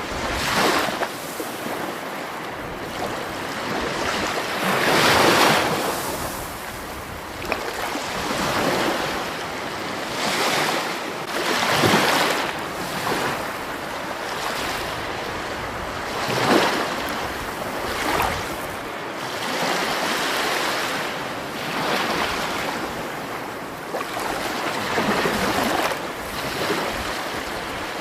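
Water rushing in a continuous flow, a steady wash of noise that swells louder every few seconds at irregular intervals.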